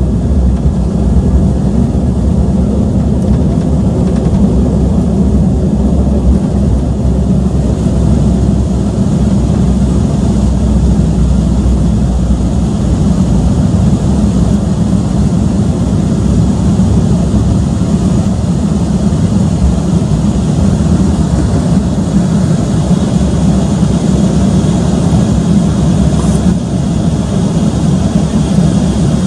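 Steady engine and airflow rumble inside the cabin of an Embraer 195-E2 airliner with Pratt & Whitney PW1900G geared turbofans, running at a constant level with a faint high whine above it.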